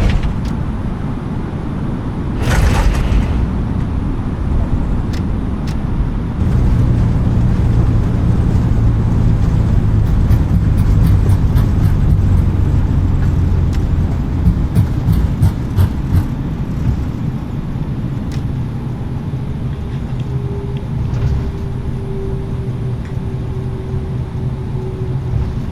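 Airliner cabin during a hard landing: a heavy thump about two and a half seconds in as the wheels come down again onto the runway. Then a loud low rumble builds from the rollout and the engines' reverse thrust, with cabin fittings rattling. The rumble eases, and a steady engine whine remains near the end.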